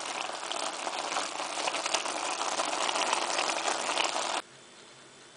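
Marinated meat and onion pieces sizzling in a hot pan, a steady crackling hiss that cuts off suddenly about four seconds in.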